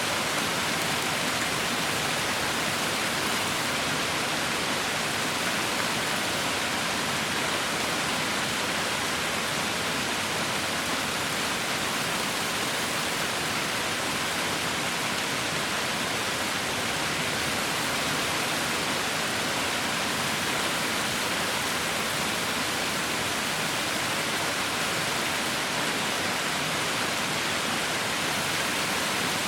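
Heavy rain falling steadily, an even, unbroken hiss with no distinct drops or thunder.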